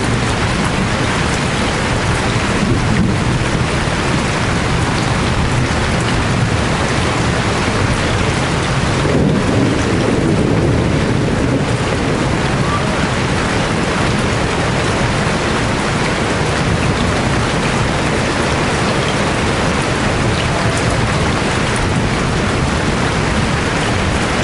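Heavy rain falling steadily, with a low rumble of thunder that swells about nine seconds in.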